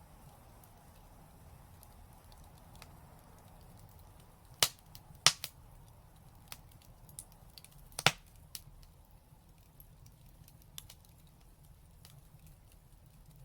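Fire in a fireplace crackling, with three loud sharp pops about four and a half, five and eight seconds in and scattered fainter ticks in between.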